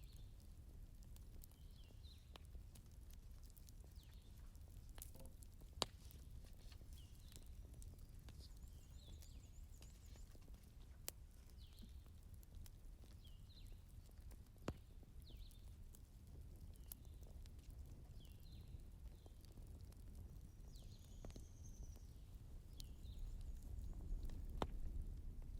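Faint crackling of a wood fire burning in a fireplace, with scattered sharp pops over a low rumble; three pops stand out, about 6, 11 and 15 seconds in.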